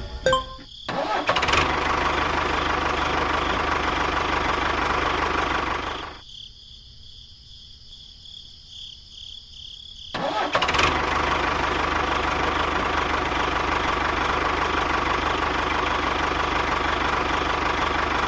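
Steady engine-like running sound that stops at about six seconds and starts up again some four seconds later.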